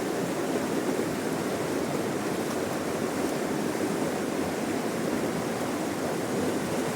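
Fast river water rushing steadily, an even roar without breaks.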